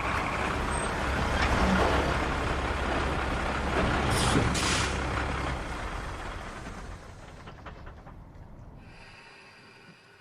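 Peterbilt 281 tanker truck rumbling to a stop, with air brakes hissing about four seconds in. After that the sound gradually fades away.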